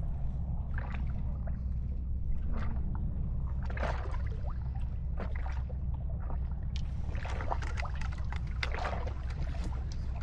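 Water lapping and splashing in irregular small bursts against a steady low rumble.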